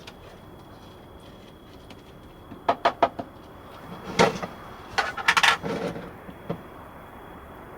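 Sharp clicks and clatters of kitchen things being handled in a small van kitchen: a quick run of clicks about three seconds in, a louder knock a second later, then a dense clatter around five seconds in and one last knock.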